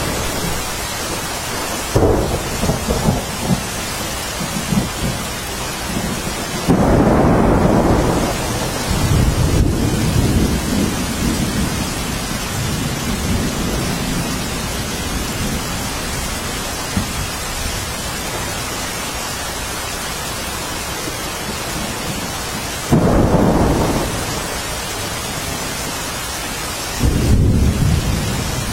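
Steady, heavy rain hissing throughout a thunderstorm. Low rolls of thunder break in four times: briefly about two seconds in, a longer roll a few seconds later, and two more near the end.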